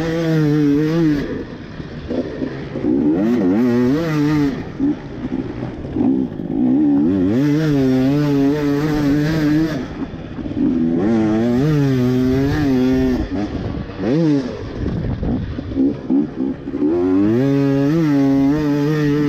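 Two-stroke Husqvarna TE250i enduro motorcycle engine being ridden hard, revving up in repeated runs of one to three seconds and dropping back between them as the throttle is rolled off and gears change.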